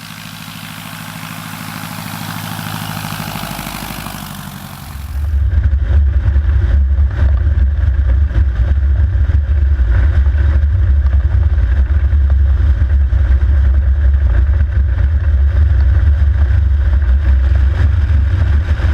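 Superstol XL light aircraft's Titan O-340 four-cylinder engine and propeller running. About five seconds in the sound switches abruptly to a much louder, deep, steady rumble.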